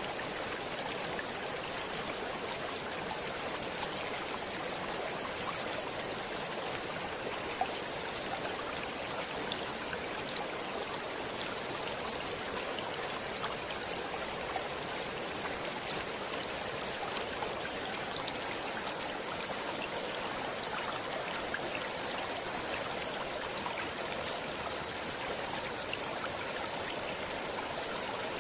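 A stream flowing steadily: a constant rush of water dotted with many tiny splashes and trickles.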